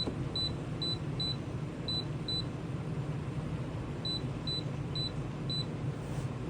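The heat pump's control panel beeps at each button press as the off time is stepped up: about ten short high beeps in two quick runs, with a pause between them. A steady low hum from the running unit lies underneath.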